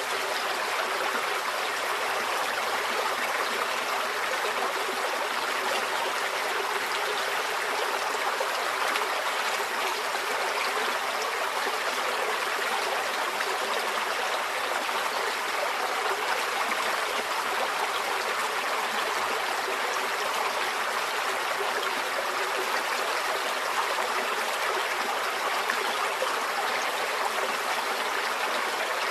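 Small stream flowing steadily over rocks, a continuous even rush of water with light trickling and gurgling.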